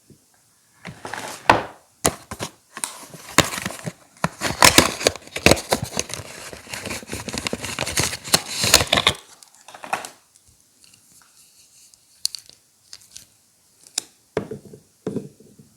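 Soap packaging wrapper being torn open and crinkled by hand, a dense run of crackling for several seconds that then thins to a few light clicks and rustles.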